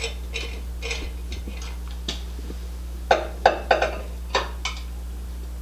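Metal parts being handled: a few light taps, then a quick run of about six sharp, ringing clinks in the second half.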